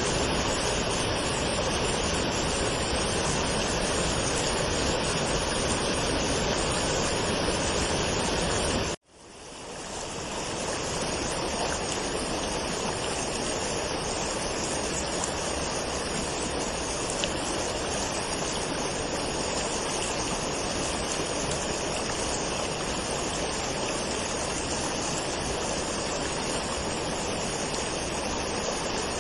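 Waterfall: a steady rush of falling water. About nine seconds in, the sound cuts out suddenly and fades back in over a second or so, as at the join of a looped recording.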